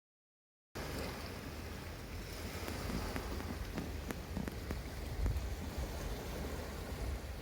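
Seaside ambience starting abruptly under a second in: a steady rushing wash with low wind rumble on the microphone and scattered small clicks.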